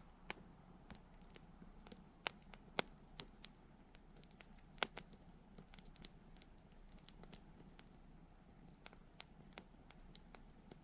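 Wood fire crackling: irregular sharp pops and snaps over a faint steady hiss of the flames, with a few louder pops between about two and five seconds in.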